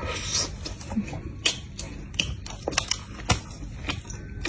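A person biting into and chewing a crispy-coated shrimp-and-chicken burger, with a series of sharp, irregular crunches.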